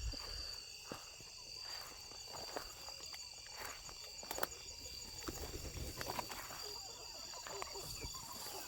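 Insects trilling steadily, a high cricket-like chorus, with scattered light clicks and knocks over it.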